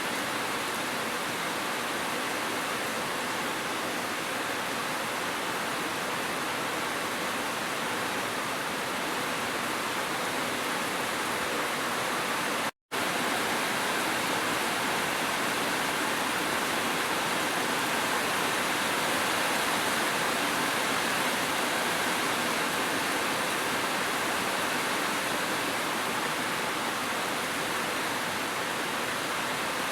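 Steady rushing of a waterfall with gentle rain, an even wash of water noise that doesn't change. It cuts out for an instant about 13 seconds in, then resumes.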